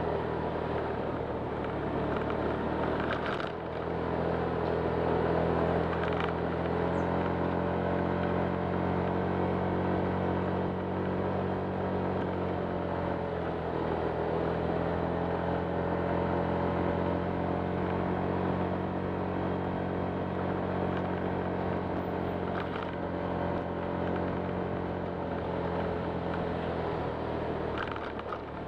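Honda Click 125 scooter's single-cylinder engine running steadily under way, its pitch dropping briefly a few seconds in and easing down and back up about halfway through.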